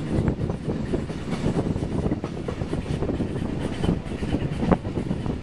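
Steam-hauled vintage train running along the track, heard from an open carriage window: a steady rumble and rattle of the carriages with irregular knocks from the wheels and couplings, and one sharper clank near the end.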